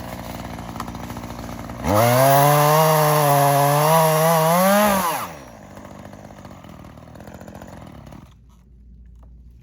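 Echo two-stroke chainsaw running low, then throttled up sharply for about three seconds, its pitch wavering and creeping up, before falling back. The engine goes quiet about eight seconds in.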